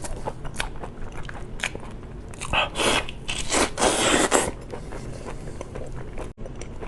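Close-miked eating: crunchy bites and chewing, with a few sharp clicks and louder crunching bursts between about two and a half and four and a half seconds in.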